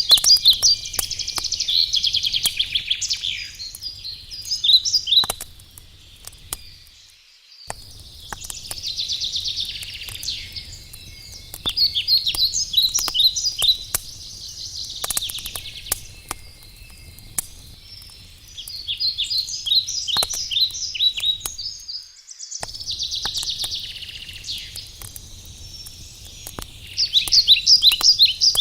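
Wood fire crackling with scattered small pops, while songbirds sing loud, repeated phrases of rapid high notes that come back every few seconds.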